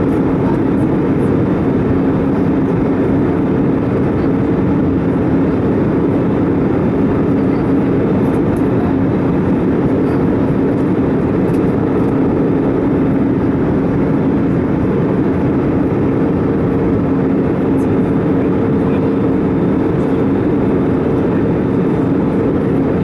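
Airbus A320 cabin noise in flight: a steady roar of engines and airflow with a constant low hum running through it.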